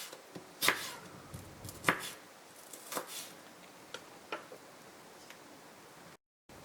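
Knife chopping on a cutting board: three sharp strokes about a second apart, then a few lighter taps. The sound drops out completely for a moment near the end.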